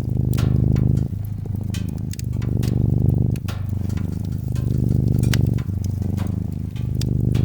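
A domestic cat purring close up, the purr swelling and easing with each breath about once a second, over the irregular pops and snaps of a crackling wood fire.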